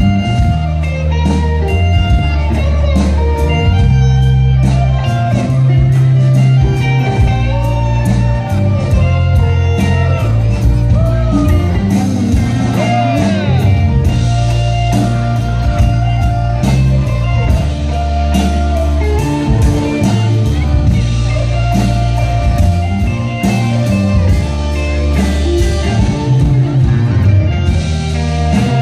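Live band playing an instrumental passage of a blues-rock song, with guitar lines bending over a steady bass and drums.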